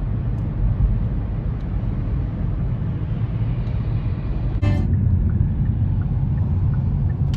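Steady low rumble of a car driving: road and engine noise heard inside the cabin, with one brief knock a little past halfway.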